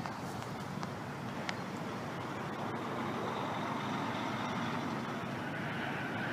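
Jet airliner engines running as the aircraft approaches, a steady rushing noise that slowly grows louder with a faint high whine coming in about halfway.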